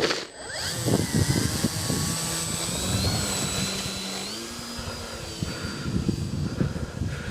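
Electric motor and propeller of a Dynam Beaver RC model plane spooling up with a rising whine after a click, then running at a steady high whine that steps up in pitch about four seconds in as the throttle is advanced.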